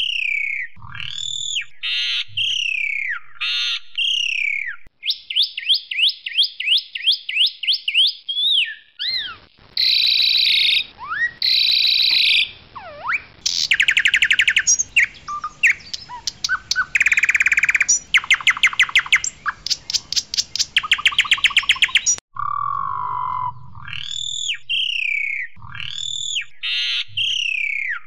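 Asian pied starling singing loudly, a varied song of clear, gliding whistles, quick runs of repeated notes and fast rattling clicks. The opening whistled phrases return near the end.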